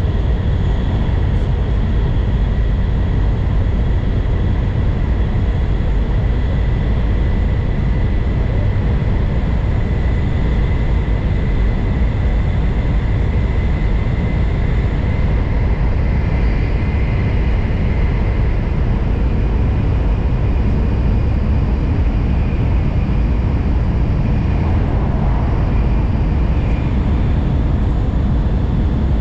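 N700 Series Shinkansen running, heard inside the passenger cabin: a steady low rumble with a thin high whine over it.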